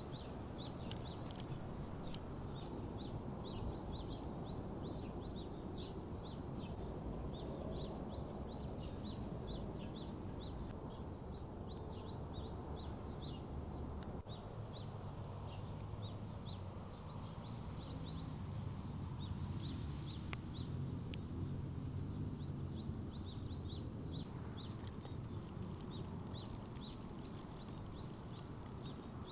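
Small birds chirping in repeated short notes over a low, steady outdoor background noise.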